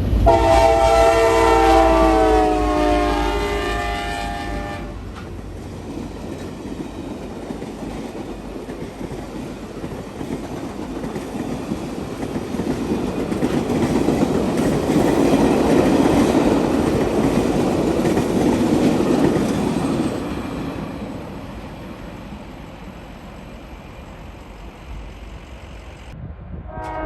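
Locomotive horn on the CSX business train sounding a chord of several tones for about five seconds, its pitch sagging slightly as it passes. Then the train rumbles and clatters by on the rails, growing louder to a peak mid-way and fading away.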